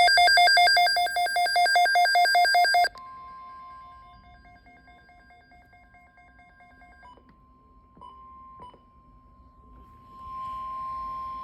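A weather radio's alert: loud, rapid electronic beeping for about three seconds, then the steady NOAA Weather Radio warning alarm tone near 1 kHz, faint at first, with a few clicks, and louder near the end. It signals a new alert about to be read out.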